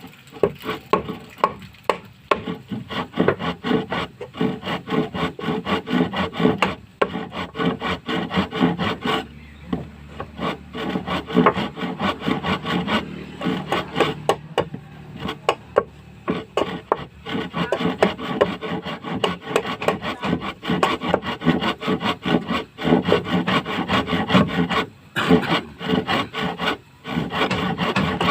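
Hand tool rasping or scraping wood in rapid, repeated strokes, with a few short pauses.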